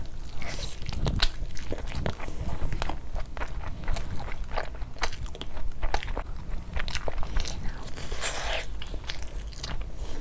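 Close-miked eating: a person biting into and chewing chicken with a full mouth, with many short wet clicks and smacks.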